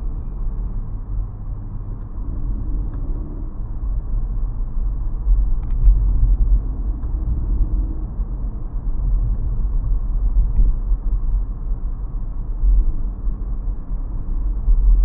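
Steady low road rumble of a 2017 Nissan Rogue being driven.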